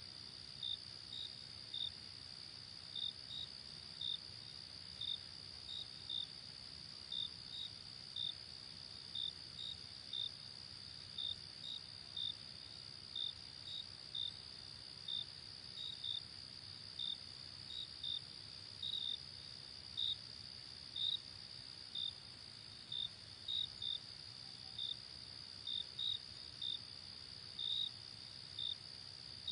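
Crickets chirping at night: short separate chirps come irregularly, about one to two a second, over a steady high-pitched insect trill.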